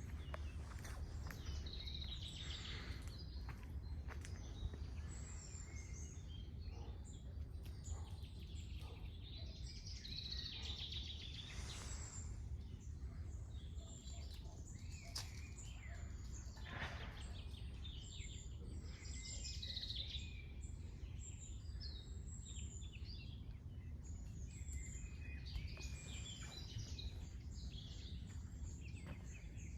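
Several birds singing and chirping, with many short overlapping calls and trills, over a steady low background rumble.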